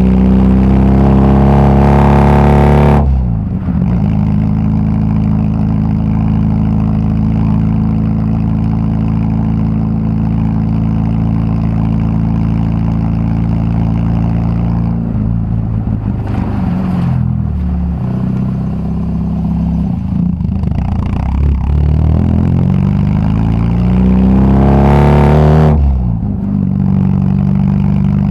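Volkswagen Gol G2's four-cylinder AP engine on the move through a straight-pipe exhaust with no muffler. The revs climb under hard acceleration and drop at a gear change about three seconds in, then hold steady for a long stretch while cruising. After that the revs fall and rise again, and a second hard pull near the end is cut off at a shift.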